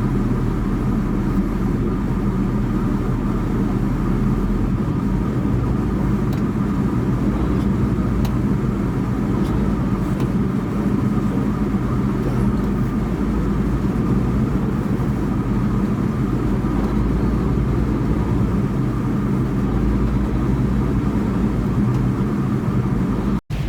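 Semi truck engine and road noise heard from inside the cab while driving: a steady low drone. The sound cuts out briefly just before the end.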